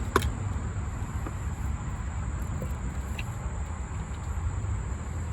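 Steady low rumble under a thin, steady high-pitched hum, with one sharp ringing clink just after the start and a few faint ticks later.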